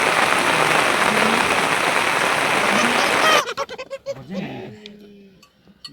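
Heavy rain pouring in a loud, steady rush that cuts off suddenly about three and a half seconds in. A few short rising-and-falling calls follow.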